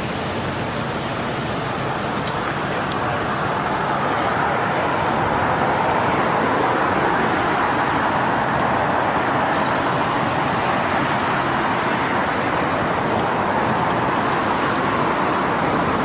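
Steady road traffic noise of passing cars, growing a little louder a few seconds in.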